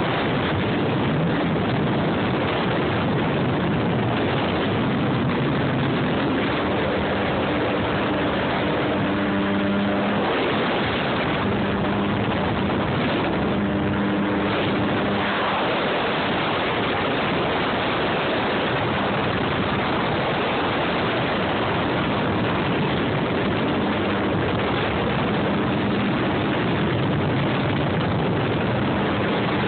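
Jet ski engine running, with a steady rush of wind and water noise throughout. The engine's tone comes through more clearly at times, most plainly in the middle stretch.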